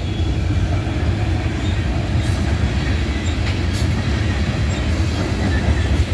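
Freight train's autorack and tank cars rolling past at close range: a steady low rumble of steel wheels on rail, with a few brief high-pitched wheel squeals.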